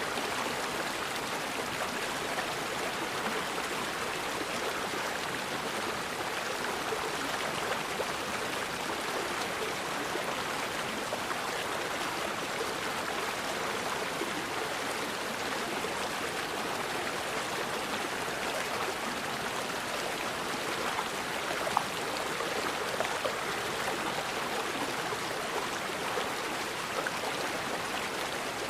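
Forest river flowing over rocks: a steady, even rush of running water, with one brief tap about two-thirds of the way through.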